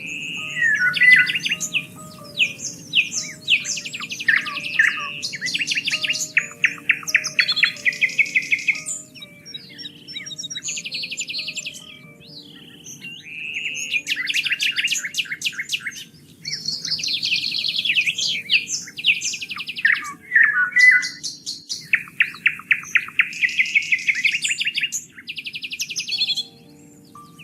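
Several songbirds singing together: repeated chirps, rapid trills and whistled phrases, with brief lulls, over a soft low background hum.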